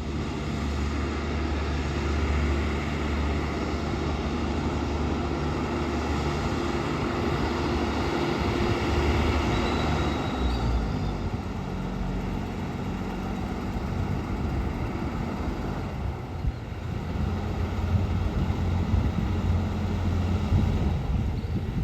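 Garbage truck engine running steadily. Its tone shifts about ten seconds in, and it grows louder and more uneven again from about seventeen seconds.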